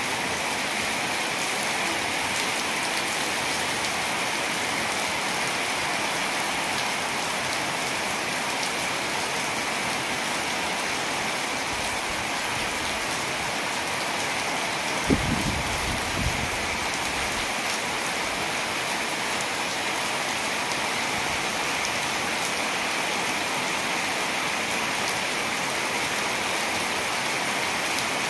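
Heavy rain pouring steadily onto flooded ground and running off roof edges. About halfway through there is one brief low thump.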